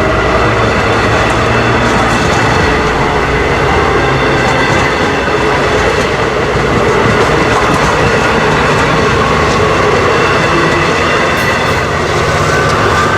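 Long Island Rail Road diesel-hauled passenger train of bilevel cars rolling past close by, with loud, steady wheel and car noise.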